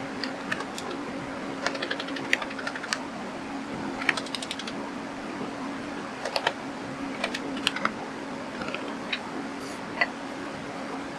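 Irregular light clicks and taps, some in quick runs and one sharper click near the end, typical of hand tools and small parts being handled during engine assembly, over a steady low hum.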